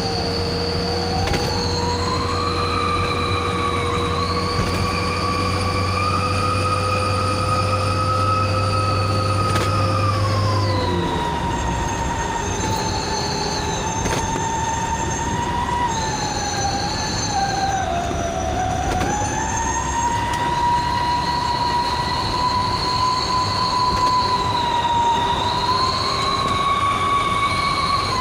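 A truck's 'knalpot serigala' wolf-howl exhaust whistle sounds continuously while under way. Its howling tone shifts up and down with engine speed, stepping down about a third of the way in, dipping and rising again past the middle. A lower steady drone underneath stops about a third of the way in.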